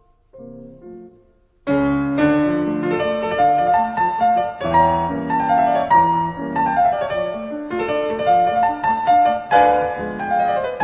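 Piano music: a few soft notes, then fuller, louder playing from about two seconds in.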